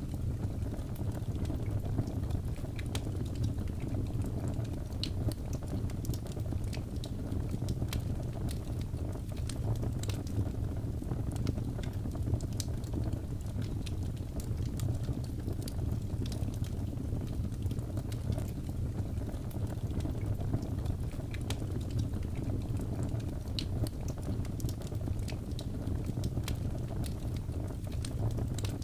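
Wood fire burning steadily: a low rumbling whoosh of flames with frequent small sharp crackles and pops of burning wood.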